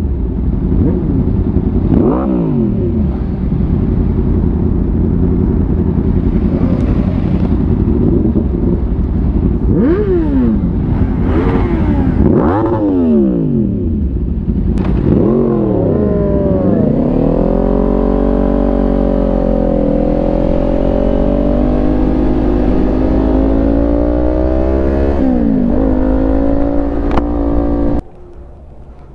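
Motorcycle engine on the move, revving up and dropping back several times as it pulls through the gears, then holding a fairly steady, slightly wavering pitch at speed, with wind rumbling on the microphone. The sound cuts off suddenly near the end.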